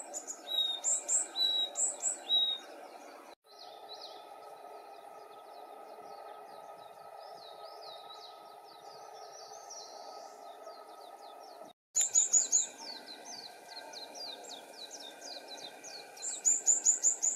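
Small songbirds singing in three separate takes. The first take has loud high repeated phrases, the second a continuous twittering warble, and the third quick runs of high, sharp notes. A steady background hiss runs under all three, and it breaks off briefly at each cut.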